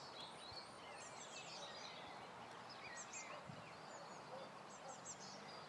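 Faint birdsong: many short, high chirps and whistles from wild birds.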